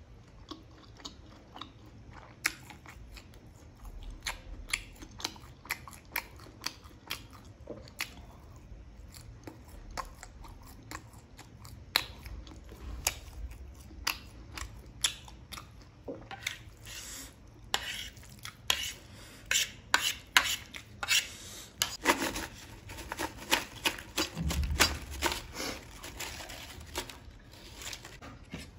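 Close-miked chewing of a fried momo, with steady wet mouth clicks and smacks. Near the end, stacked potato crisps are tipped out of their can onto a plastic plate, a louder run of crackling and clattering with a low knock.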